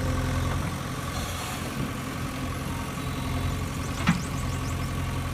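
Steady engine-like idling hum from a toy JCB, with one sharp click about four seconds in.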